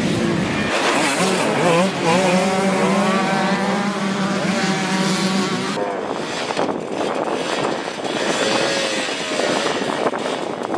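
Dirt bike engines revving up and down, with the sound changing abruptly to a rougher, noisier engine sound about six seconds in.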